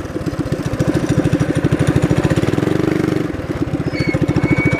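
Small minibike engine running in rapid, even pulses. It briefly rises in pitch and falls back a little past halfway.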